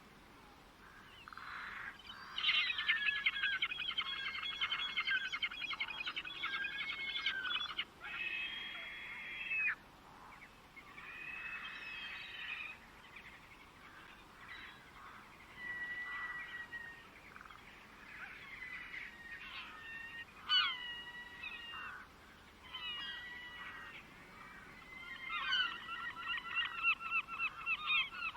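Birds calling: a long run of rapid, repeated nasal notes, then scattered shorter calls and slurred notes, and another rapid run near the end.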